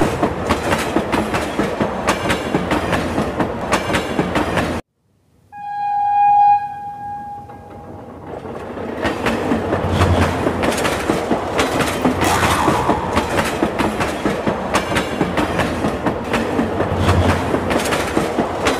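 Children's fairground mini train ride clattering and rattling along its track. About five seconds in the sound cuts out briefly, then a single steady horn toot sounds for about two seconds and fades before the clatter comes back.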